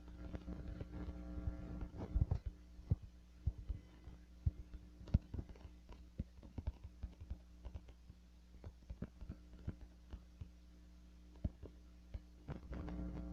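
Steady low electrical-sounding hum with irregular soft clicks and knocks scattered through it.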